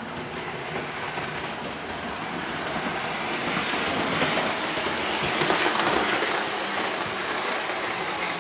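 Model train running along the layout track: a steady rolling, rattling noise of wheels and motor that grows louder over the first five or six seconds, then eases slightly.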